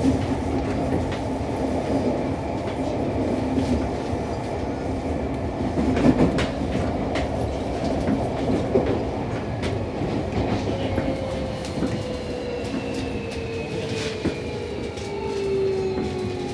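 Seibu 6000 series electric train heard from inside its motor car: steady rolling noise with sharp wheel clacks over rail joints. From about ten seconds in, the Toshiba IGBT inverter and traction motors whine with a pitch that falls steadily as the train brakes for the station.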